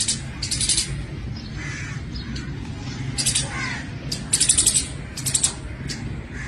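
Birds giving short, harsh, high-pitched calls in quick clusters, several times, over a steady low hum.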